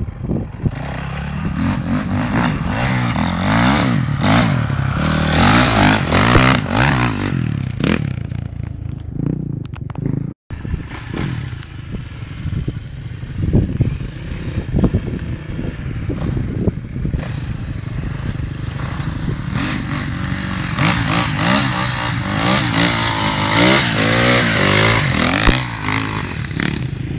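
Motocross dirt bike engines revving up and down repeatedly as they ride, with rising and falling engine pitch throughout. The sound cuts out briefly about ten seconds in.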